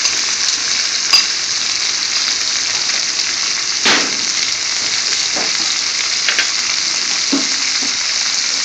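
Freshly added sliced onions and chopped garlic sizzling steadily in hot vegetable oil in a wok, with a few light clicks and one scrape of the metal spatula against the pan.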